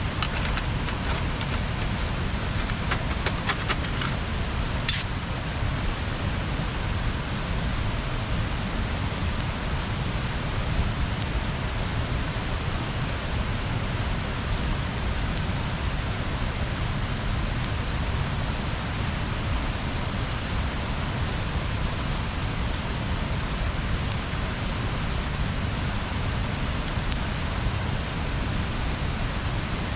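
Bonfire burning with a steady rushing noise, and a quick run of sharp crackles and pops from the burning wood in the first few seconds, then one more pop about five seconds in.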